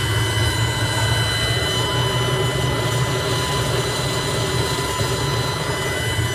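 Steady industrial machinery running in a gear factory: a constant low hum with several fixed high-pitched whines over it.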